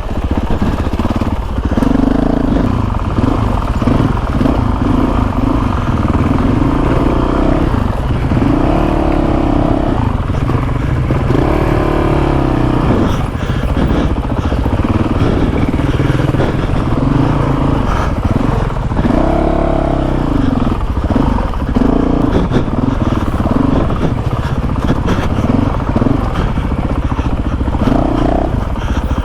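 Honda CRF450RL's single-cylinder four-stroke engine pulling the bike slowly along a dirt trail. Its pitch rises and falls again and again as the throttle is worked.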